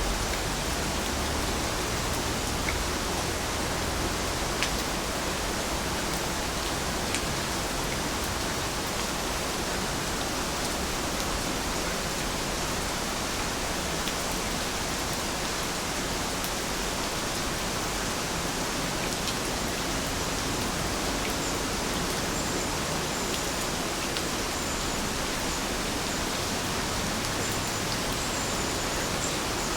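Steady rain falling, an even continuous hiss with a few separate drop ticks in the first several seconds.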